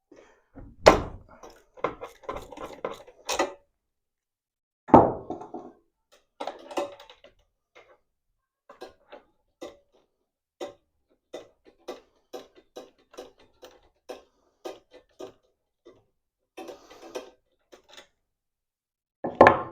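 Tool handling while a spark plug is unscrewed from a lawnmower engine: a few knocks and thumps, then a long run of light clicks, a couple a second, from the wrench working the plug loose.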